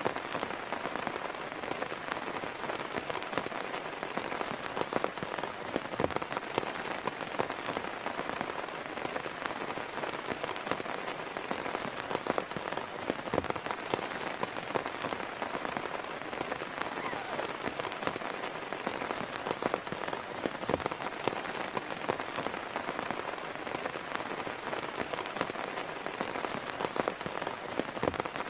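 Heavy rain falling steadily, with many individual drops ticking and pattering on a surface close to the microphone.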